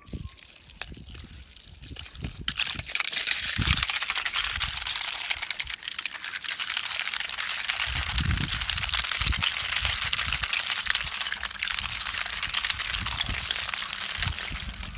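A hose shooting out ice: a steady, hissing, rattling spray that starts about three seconds in, with low thuds underneath.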